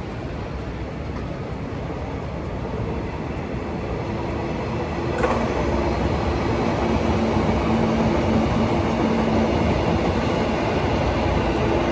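A JR Kyushu train running past on the line. The rumble grows louder about five seconds in, with a sharp click, and a steady hum runs under it from then on.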